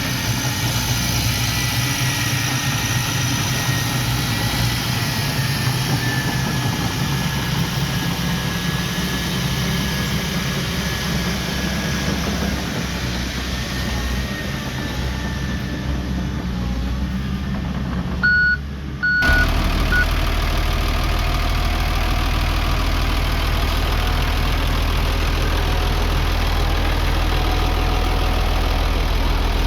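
Heavy earthmoving machinery's diesel engine running steadily. A little after halfway the sound breaks off with a few short high beeps, then gives way to a steadier, deeper engine drone.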